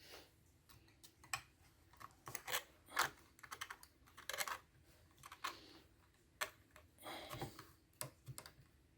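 Small metal tools clicking and scraping on an Alfa Romeo 147 gear lever tower as the tabs holding its plastic bush are worked loose: irregular light clicks, with two longer scrapes near the middle and later on.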